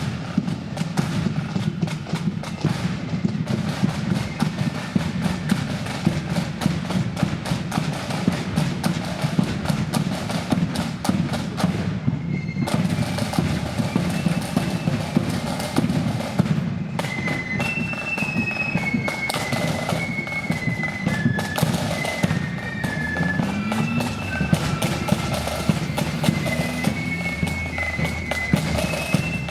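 Loyalist marching flute band playing, its drums beating fast and dense on their own at first; a little before halfway the flutes come in with a high melody over the drumming.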